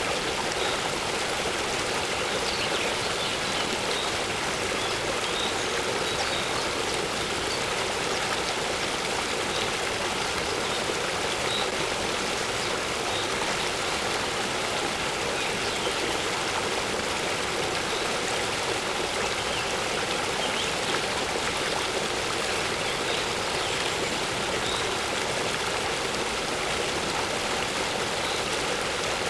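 A waterfall splashing steadily into water, a constant even rush. Faint short bird chirps come now and then.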